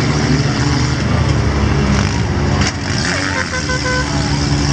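Compact four-cylinder demolition derby cars' engines running hard under crowd chatter, with a sharp crash of metal about two and a half seconds in. A horn toots in short pulses soon after.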